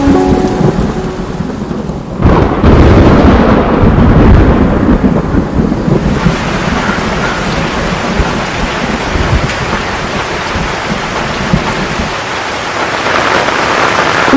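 Heavy rain falling with thunder: a thunderclap breaks out about two seconds in and rumbles on for a few seconds, then steady rain continues.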